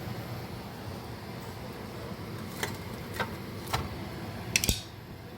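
A low steady hum with three light clicks about half a second apart, then a sharper clatter near the end.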